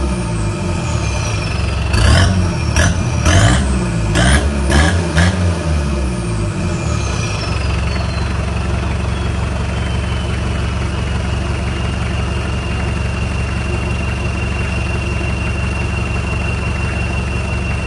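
Toyota SW4's 3.0 1KZ four-cylinder turbodiesel revved in several quick blips. Each time the turbo whistle falls in pitch as it spools down. It then settles to a steady idle with a constant high turbo whistle.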